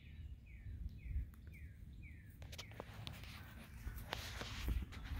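A songbird singing a run of repeated down-slurred whistled notes, about two a second. About halfway in, the birdsong gives way to footsteps and rustling with sharp clicks, over a low rumble.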